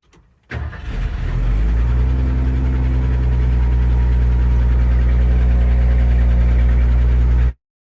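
A truck engine starts about half a second in and settles into a steady idle. The sound cuts off suddenly near the end.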